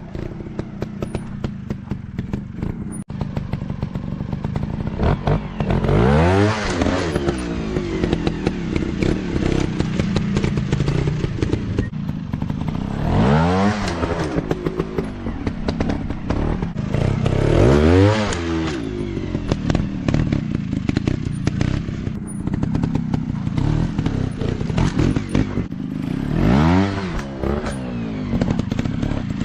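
Dirt bike engines running steadily, with four separate revving bursts in which the engine pitch climbs and then drops back.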